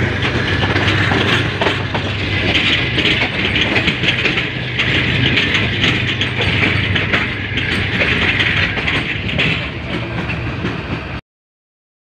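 Subak Kharam passenger train running at speed, heard from an open window: wheels clattering rapidly over rail joints and a track crossing over a steady rushing noise. The sound cuts off abruptly about eleven seconds in.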